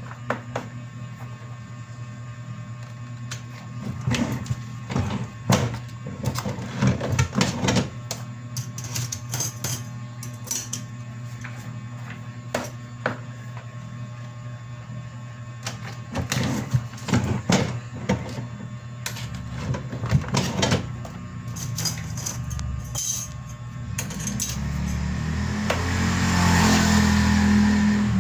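A machine hums steadily under irregular clicks and clattering knocks. Near the end a louder whirring noise builds up.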